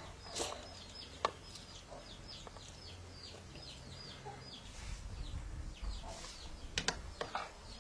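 A bird peeping over and over, a run of short falling chirps about three a second, with a few sharp clinks of a spoon on a plate.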